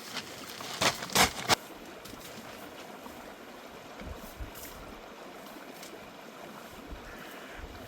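Three or four sharp knocks close together about a second in, over a steady rushing hiss.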